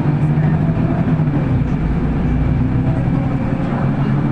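City bus driving along, heard from inside the passenger cabin: a steady low engine drone with road and body rumble.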